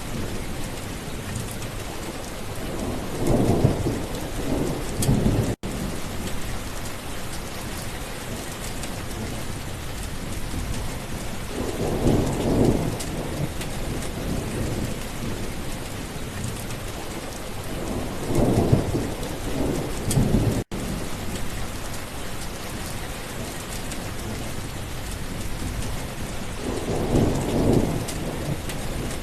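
Steady heavy rain with thunder rumbling four times. The sound drops out for an instant twice.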